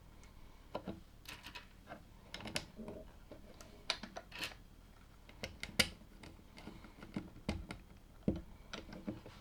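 Plastic LEGO pieces clicking and clacking as they are handled and snapped together: irregular sharp clicks, several a second at times, with a few duller knocks.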